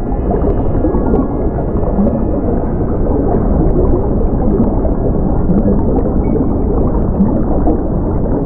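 Steady low gurgling and rumbling of water.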